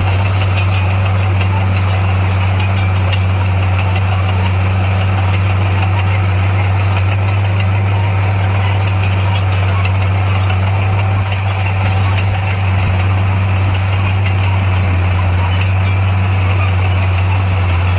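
Heavy diesel engine of construction machinery running steadily at constant speed, a deep even hum.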